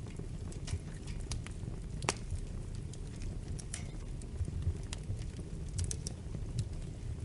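Wood fire in a fireplace crackling: irregular sharp pops and snaps over a steady low rumble of flames, with one louder pop about two seconds in.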